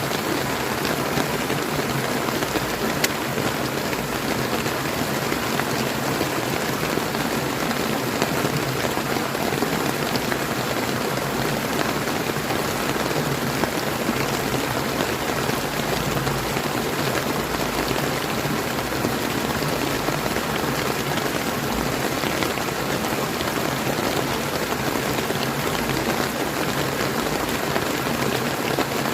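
Steady rain falling, a dense even hiss of drops with occasional individual drop ticks, mixed with the flow of a clear river.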